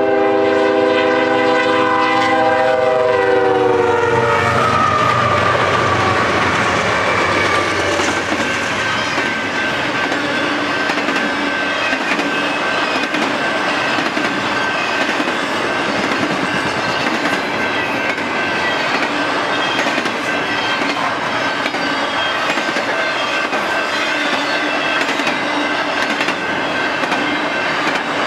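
Freight locomotive horn sounding as the train passes close by, the chord dropping in pitch about three to four seconds in. Then the stack train's cars roll past in a loud steady rumble with clickety-clack over the rail joints and a thin steady high squeal.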